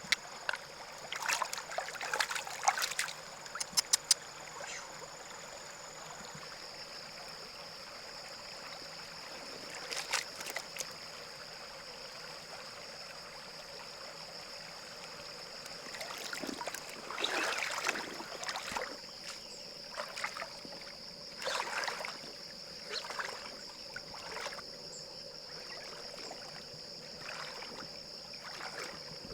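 Water splashing and trickling in a shallow river, with scattered short knocks and clicks, over a steady high-pitched whine.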